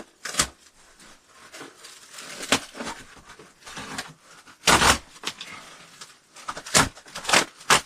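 Irregular knocks, crunches and rustling of bark and wood being handled, with one louder knock about five seconds in and a quick run of knocks near the end.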